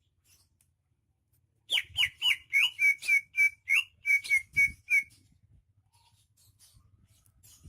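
Greater green leafbird (cucak ijo) singing a fast run of about a dozen loud, clear whistled notes, roughly three a second, each with a quick flick in pitch; the run starts about two seconds in and lasts a little over three seconds.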